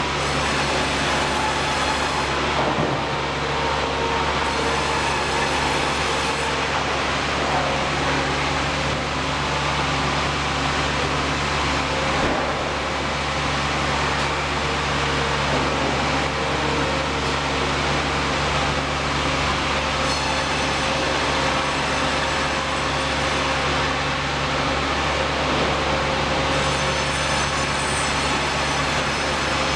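Sawmill machinery running steadily: a loud, constant mechanical noise with a low hum. A high, thin whine comes in and out several times.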